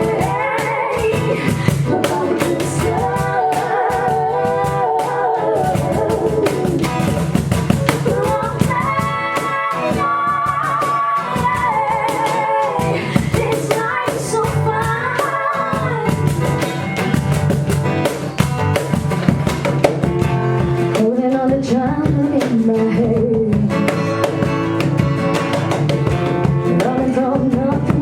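Live song: a singer's voice over a strummed guitar, playing continuously.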